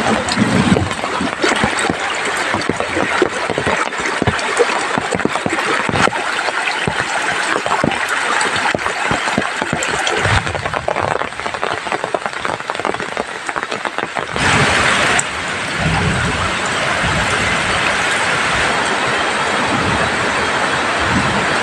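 Heavy rain falling, with many close drops ticking on a surface, over the rush of a swollen, fast-flowing river. About two-thirds of the way through, the ticking gives way to a steadier, even rush.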